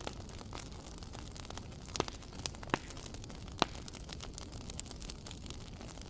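Wood fire burning with a steady low rumble and hiss, and scattered sharp crackles and pops, the loudest three coming about two, two and a half and three and a half seconds in.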